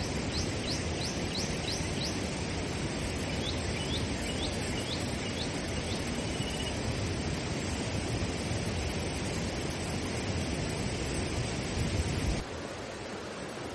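Steady rushing water, with a small bird calling over it: a run of about six quick rising notes in the first two seconds, then another run of short notes a few seconds later. A little after twelve seconds the noise drops suddenly to a softer, duller hiss.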